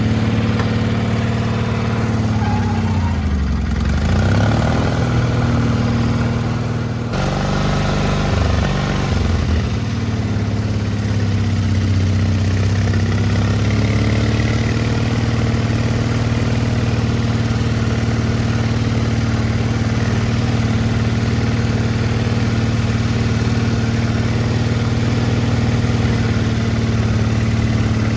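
Small riding-mower engine, freshly rebuilt after a scored connecting rod, running on its own. Its speed sags and picks back up twice in the first ten seconds, with an abrupt break about seven seconds in, then it holds a steady idle.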